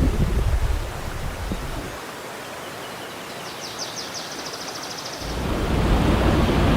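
Rainforest ambience with an even rushing of water. A rapid high trill runs for about a second and a half in the middle. Near the end a louder rush of flowing water swells in, and low thumps are heard at the very start.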